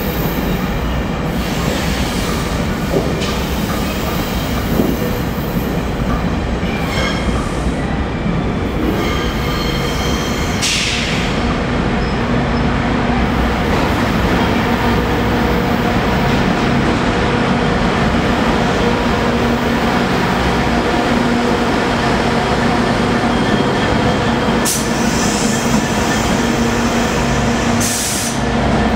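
GO Transit bilevel commuter train rolling past along the platform, a steady rumble of wheels on rail with brief wheel squeals now and then. A steady low engine hum comes in about halfway through as the diesel locomotive draws near.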